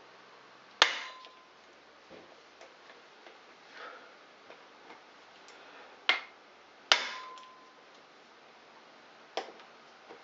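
Hammer blows on a hand impact driver, loosening tight screws on a Honda SL125 motorcycle engine: four sharp metal strikes spread across several seconds, two of them leaving a brief ringing tone, with small clicks and knocks of the tool between.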